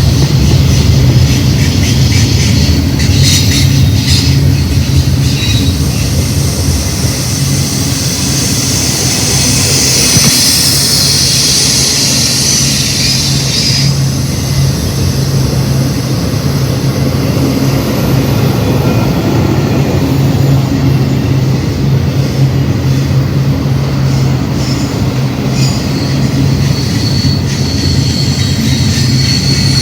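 Loud intermodal freight train rolling past close by: a steady rumble of wheels on rail, with a high hiss for several seconds that cuts off about 14 seconds in, and a few faint high squeals.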